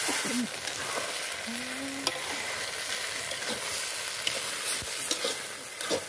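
Mashed banana flower sizzling in hot oil and spices in an aluminium karahi, stirred and scraped with a metal spatula, with scattered clicks of the spatula against the pan.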